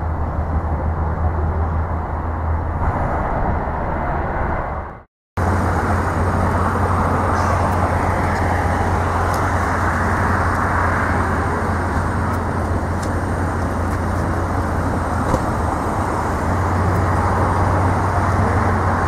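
Steady rumbling roar of an Airbus A321-231's IAE V2500 turbofan engines at takeoff power, heard from outside the airport. The sound cuts out completely for a moment about five seconds in, then resumes just as steady.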